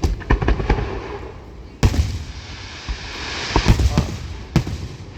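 Aerial fireworks display going off: a series of sharp bangs and booms, the strongest about two seconds in and a cluster near the four-second mark, with a hiss building up between them.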